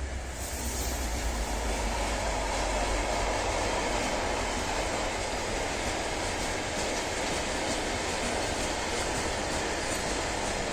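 Freight train passing, its wagons rolling over the rails with a steady rumble and wheel clatter that builds over the first second or so and then holds.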